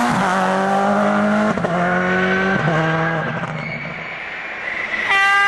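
Rally car engine at full throttle, climbing in pitch and dropping back at each of three quick upshifts, then fading as the car pulls away. Near the end a louder engine note cuts in suddenly at a steady high pitch.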